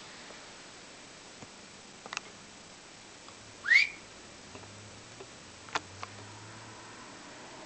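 Pet canary giving one short, loud, upward-sliding whistled chirp. A few light clicks come before and after it.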